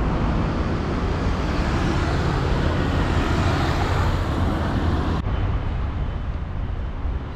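Steady city traffic noise with a deep engine rumble. The sound changes abruptly about five seconds in, going duller as the higher hiss drops away.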